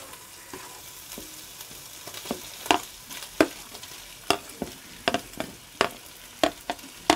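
Crushed ginger and garlic sizzling in hot oil in a clay pot, with a steady frying hiss. A spatula scrapes and taps against the pot a dozen or more times as it stirs.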